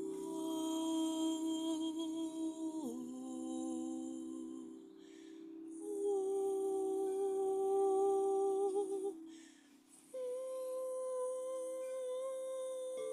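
A voice humming long, held notes, stepping to a new pitch every three or four seconds, over a steady lower drone that fades out about nine seconds in.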